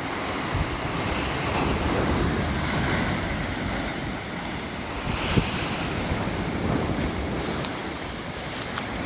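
Wind buffeting the microphone over a steady rushing hiss that swells and eases a couple of times.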